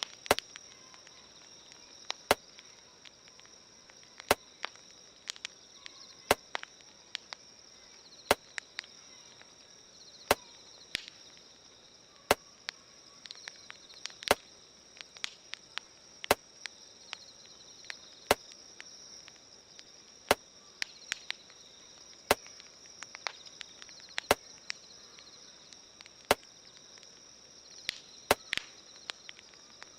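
A campfire crackling with small irregular pops, with a sharp click about every two seconds, over the steady high chirring of insects.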